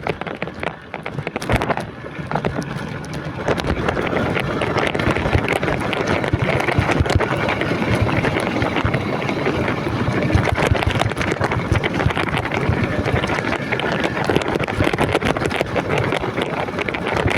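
Modified Yamaha Jupiter Z 130cc underbone motorcycle engine running over a rocky trail, with a constant rattle and clatter and wind buffeting the microphone. It grows louder about three seconds in and then holds steady.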